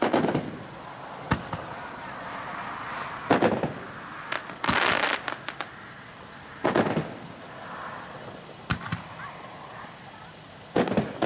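Double Knockout consumer fireworks cake firing: a series of aerial shell bangs about every one and a half to two seconds, with a burst of crackling about five seconds in.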